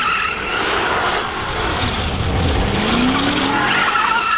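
A car doing a burnout: tires screeching steadily over the engine, which revs up in pitch about three seconds in.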